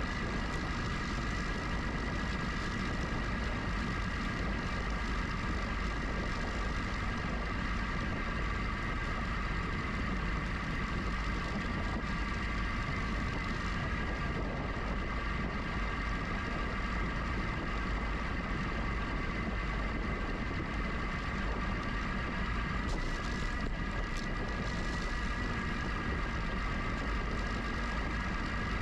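Steady wind rumble on the microphone and rolling noise from riding a GoCycle GX electric bike, with a steady high whine over it.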